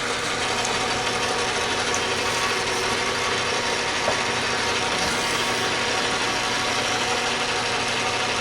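Metal lathe running steadily while a hand-ground tool bit takes a cut in the work: a constant motor hum with steady tones under dense, even cutting noise.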